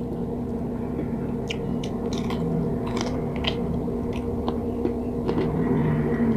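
Close-up chewing and biting of fried pork pinakupsan: wet mouth sounds with scattered crisp crunches, over a steady low hum.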